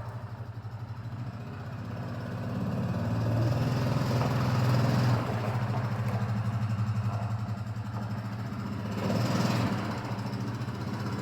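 Side-by-side UTV engine running at low revs as the machine creeps forward, picking up a little a few seconds in, easing off, and picking up again near the end.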